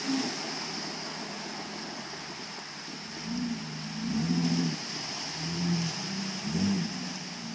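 Water spraying from a hose in a steady hiss, with short low-pitched hums coming and going several times in the second half.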